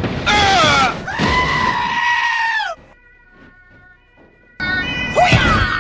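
High-pitched cries: a short one falling in pitch, then a long held one that drops away at its end, followed after a short lull by music.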